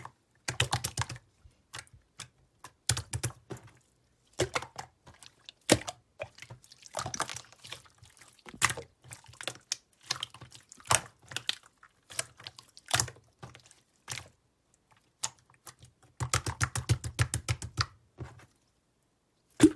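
Clear slime being squished and pressed by hand, giving irregular sticky clicks and pops, with a quick run of rapid pops near the end.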